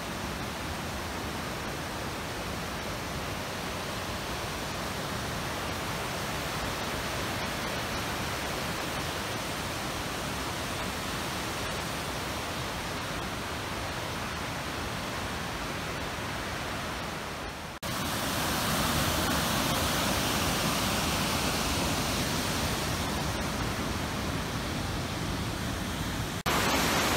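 Steady, even rush of falling water from a large waterfall. It jumps abruptly louder about two-thirds of the way through and again near the end.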